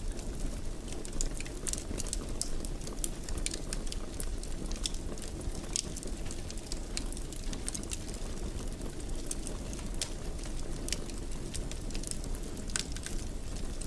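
Fire burning in a fireplace: a steady low rush of flame with frequent small crackles and pops.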